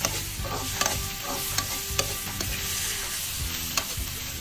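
Chicken pieces sautéing with onion, ginger and garlic, sizzling in oil in a wok as a metal ladle stirs them, with scattered clicks and scrapes of the ladle against the pan.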